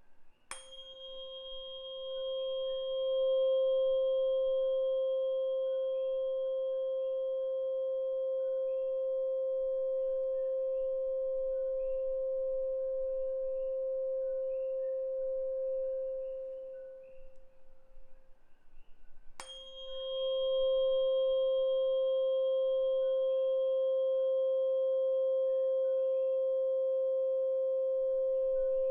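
A 528 Hz Solfeggio tuning fork is struck twice, about half a second in and again about 19 seconds in. Each strike gives a steady pure tone with faint higher overtones. The first ring dies away just before the second strike, and the second rings on at full strength.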